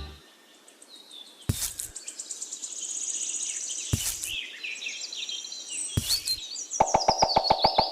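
Birds chirping and twittering, broken by three sharp knocks spaced about two seconds apart. Near the end a fast, even pulsing starts, about eight beats a second.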